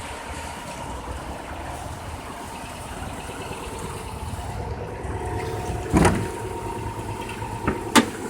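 Subaru Legacy GT's twin-turbo engine idling steadily, with a heavy thud about six seconds in and two sharp knocks near the end.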